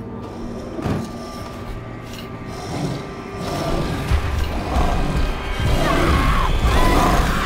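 Trailer score and sound design: a dense mechanical-sounding texture with a sharp hit about a second in, swelling louder from the middle onward and cutting off abruptly at the end.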